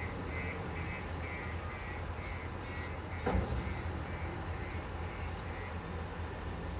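Heavy diesel engine running steadily, with a rapid, evenly repeating high-pitched chirping over it in the first half and a single sharp clank about three seconds in.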